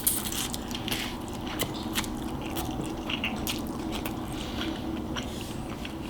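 Close-miked chewing of noodles mixed with crushed Flamin' Hot Cheetos: soft wet chewing with scattered small crunches and mouth clicks.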